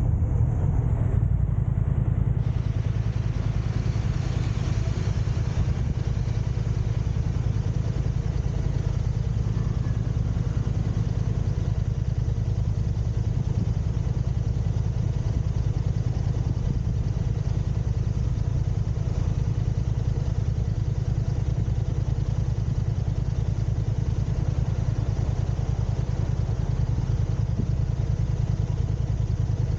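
Car engine and road noise heard from inside the moving car: a steady low rumble.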